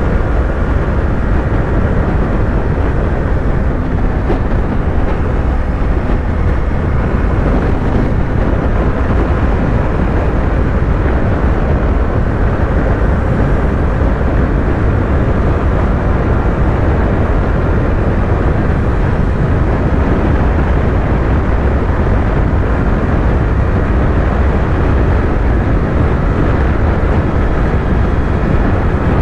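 Yamaha YZF-R3's parallel-twin engine running steadily at highway cruising speed, under a loud, even rush of wind and road noise.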